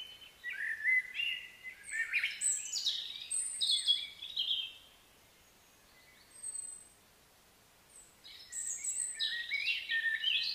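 Bird singing: runs of quick, varied high chirps and whistles for the first few seconds, a brief call midway, then another run of chirping near the end.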